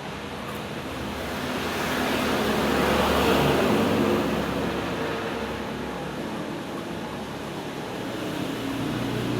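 A road vehicle passing by: a broad rushing noise that grows louder, peaks about three to four seconds in, then fades, over a steady low hum.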